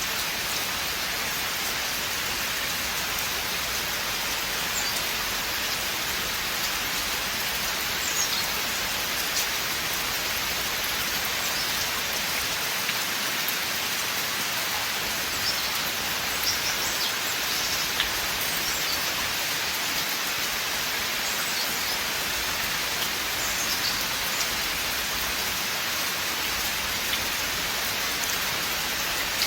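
Steady rain falling through a forest, an even hiss with scattered single drops ticking close by.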